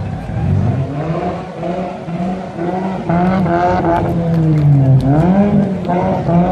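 A modified car's engine revving as it drives off, its pitch rising and falling in several swells and getting louder about three seconds in.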